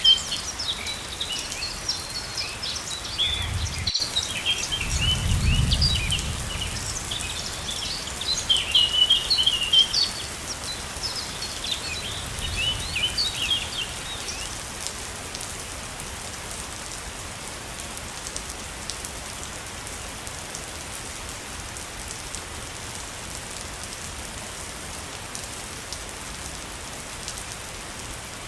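Steady rush of a waterfall, with small birds chirping busily over it that fall silent about halfway through, leaving only the falling water. A brief low rumble comes a few seconds in.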